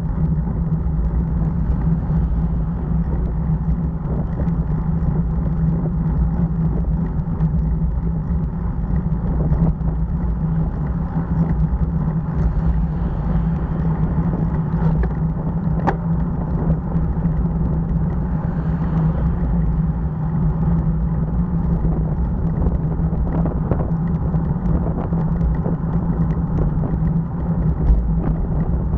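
Motorcycle running steadily at a constant cruising speed, a steady engine drone over a low rumble of wind and road noise.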